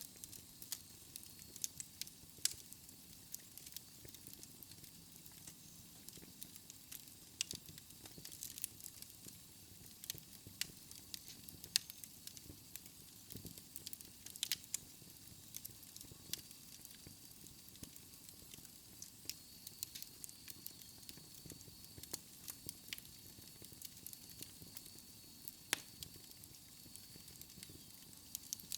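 Wood logs burning in a fireplace: irregular crackles and sharp pops over a steady soft hiss and low rumble of the flames. A faint high whistle joins about halfway through.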